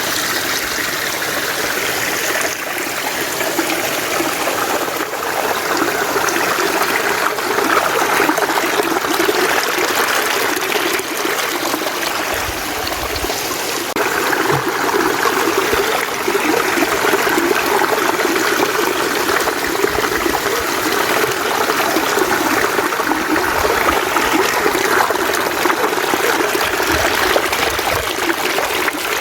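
Mountain stream water flowing steadily over rocks, an even, unbroken rush.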